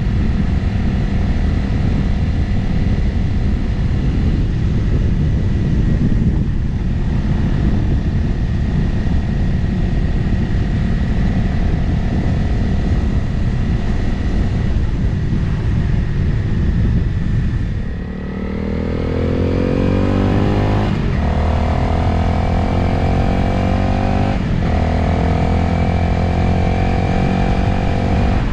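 Motorcycle riding at a steady cruise, its engine mixed with wind noise on the microphone. About two-thirds of the way through the engine drops back, then the revs climb as it accelerates through two gear changes about three and a half seconds apart, and it settles into a steady run.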